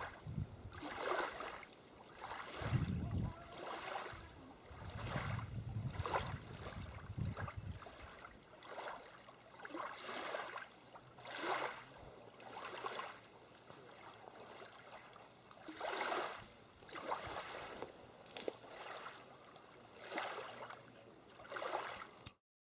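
Water swishing and splashing in repeated surges, one every second or two, with wind rumbling on the microphone for the first several seconds. The sound cuts off suddenly near the end.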